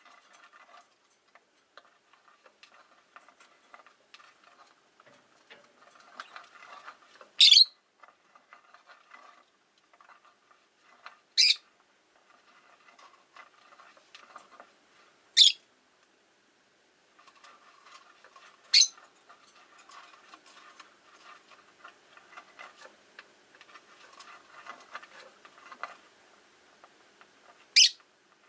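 Rosy-faced lovebirds: five sharp, short, high-pitched calls a few seconds apart, with faint clicking and rustling in between.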